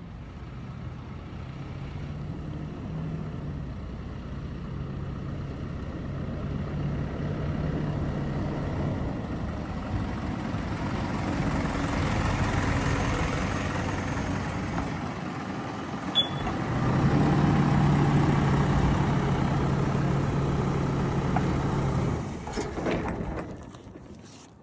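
An engine running steadily, growing louder over time and stepping up sharply about two thirds of the way through, then dying down near the end.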